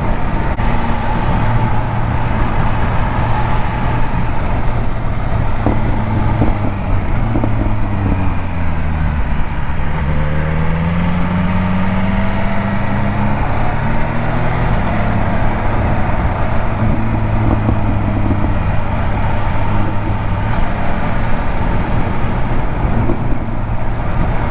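Motorcycle engine running at road speed, with wind rushing past the helmet microphone. About eight seconds in, the engine note drops as the bike slows, then climbs again as it accelerates away.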